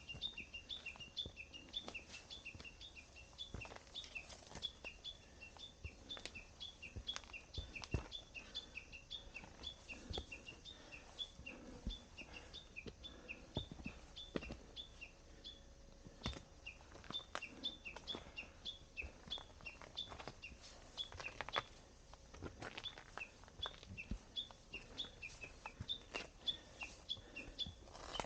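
A small bird calling over and over, a quick high two-note chirp repeated a few times a second, with scattered light knocks underneath.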